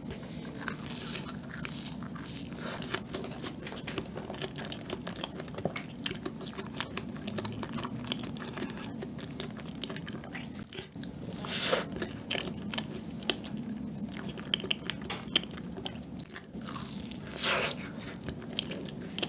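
Close-miked chewing of soft pumpkin cheesecake: wet, irregular mouth clicks and smacks, with a couple of louder bites or smacks about twelve and seventeen seconds in.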